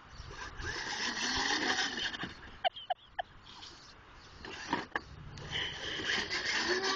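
Small electric motor of a battery-powered ride-on toy truck whirring as it drives, with its wheels rolling on the pavement; it stops for a few seconds in the middle, where three short sharp sounds come, and then starts up again.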